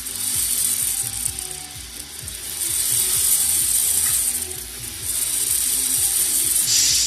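The electric drive and gear train of a 1/14-scale RC model V8 engine running: a high whir with gear clatter, which swells and eases three times as it speeds up and slows.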